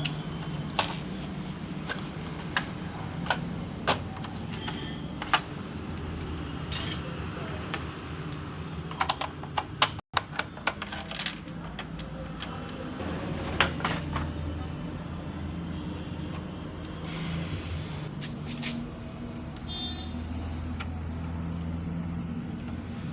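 Irregular small clicks and taps of parts being handled during projector repair, sharper in a quick cluster about nine seconds in, over a steady low hum.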